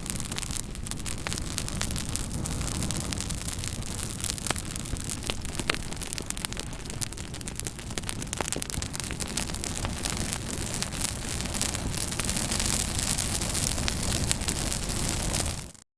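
Fire crackling: a steady hiss with many sharp pops and snaps, cutting off suddenly near the end.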